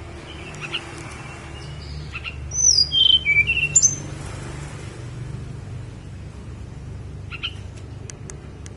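Tledekan gunung songbird singing: a short phrase of clear whistled notes that slide down in pitch, starting about two seconds in, with a few faint chips before and after. A steady low hum runs underneath.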